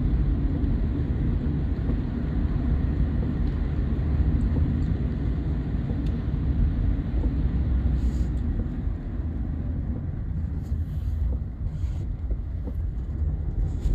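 Steady low outdoor rumble, unevenly fluctuating, with a few faint ticks about two thirds of the way through.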